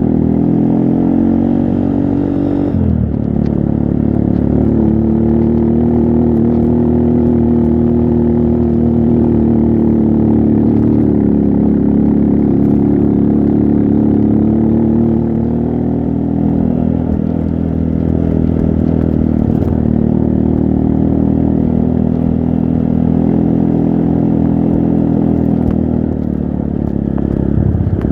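Trail motorcycle engine running under load. Its pitch shifts about three seconds in, then slowly rises and falls with the throttle.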